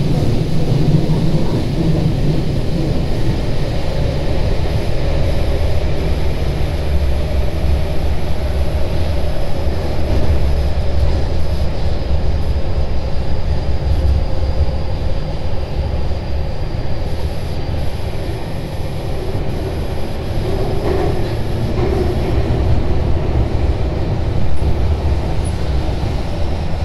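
Interior running sound of a Tobu 50070 series electric train: a steady low rumble of wheels on rail, with a faint whine.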